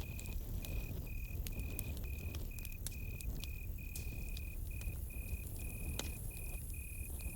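Campfire crackling with scattered sharp pops over a low, steady rumble, with crickets chirping steadily at about two chirps a second.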